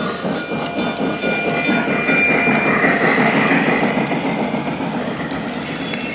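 O gauge model train rolling along three-rail track with a rumbling run and many small clicks from the rail joints. It grows louder to about three seconds in, then fades a little as it passes.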